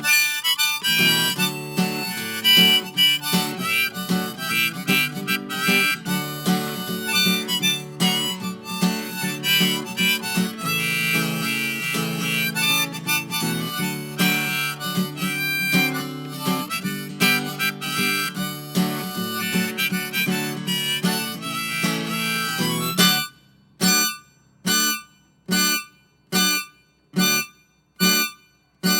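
Instrumental break in a folk song: a harmonica lead over strummed acoustic guitar. About 23 seconds in the harmonica drops out, and the guitar plays short, clipped strums a little more than once a second, with silence between them.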